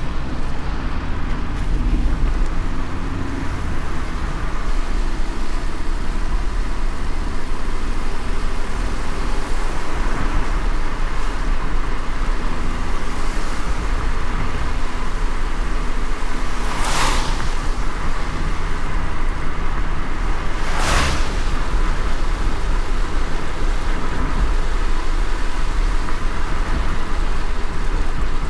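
Car driving in light rain: a steady low road rumble under an even hiss of rain and wet road. Two brief swishes come about four seconds apart, a little past the middle.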